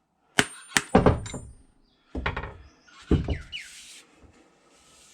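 Sharp knocks and strikes in short clusters, some with a thin metallic ring, from widening the kerf in a new spotted gum maul handle so the wedge will seat fully.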